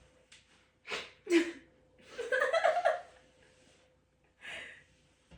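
A person's wordless vocal sounds: two short sharp gasps or breaths about a second in, then a longer pitched, pulsing voice sound, and one more short breath near the end.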